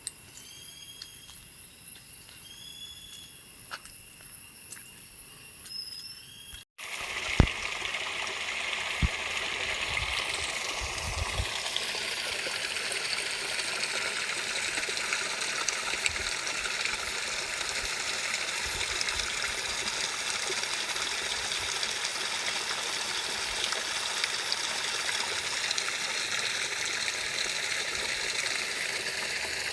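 A few short, repeated bird chirps over a quiet background, cut off abruptly about seven seconds in by steady rushing water, like a stream or small cascade, which fills the rest.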